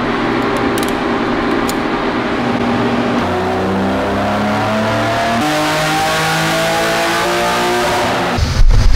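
BMW E36 M3's straight-six engine running hard on a chassis dynamometer, its pitch climbing steadily with two sudden drops a few seconds apart, like upshifts under full throttle. Near the end the sound changes and gets louder.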